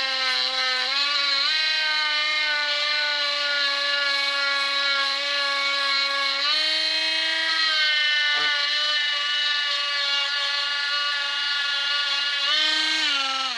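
Parkside cordless multi-grinder (rotary tool) running at speed with a polishing bit: a steady high whine whose pitch steps up and down slightly as the load on the bit changes. It is switched off at the very end, its pitch falling as it winds down.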